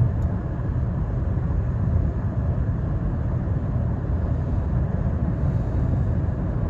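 Steady rumble of road and engine noise inside a moving vehicle's cabin, with no distinct events.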